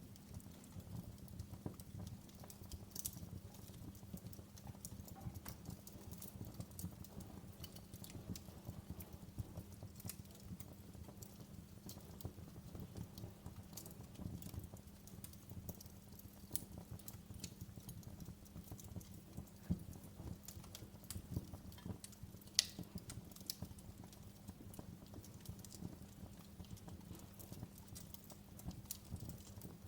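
Wood fire in a fireplace crackling: irregular small pops and snaps, with one sharper pop about three quarters of the way through, over a low steady hum.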